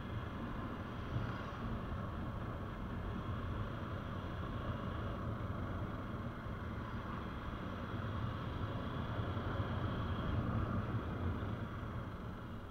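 Steady running noise of a moving vehicle, with low wind rumble, holding even throughout.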